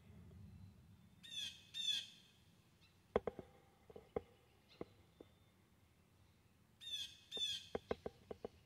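A bird giving harsh calls in quick pairs, one pair about a second in and another near the end, with a scatter of short sharp clicks in between.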